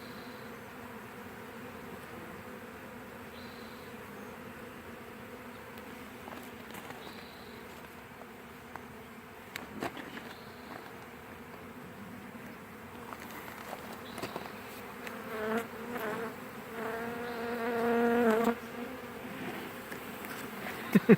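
Honeybee swarm humming steadily around a hive entrance as the bees are hived, with workers fanning at the entrance. From about 15 s to 18.5 s a louder, pitched buzz swells as bees fly close.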